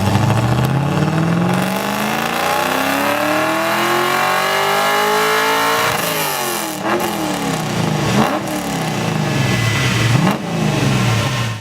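Ford Sierra XR8's 302 cubic inch Ford V8 accelerating hard, its pitch climbing steadily for about six seconds. It then drops and revs up and down in several short blips.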